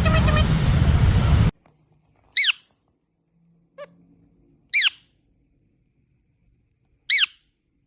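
Pet parrot giving three short, sharp screeches, each sweeping down in pitch, about two and a half seconds apart, with a fainter short call between the first two. Before them, a second and a half of loud, noisy background cuts off abruptly.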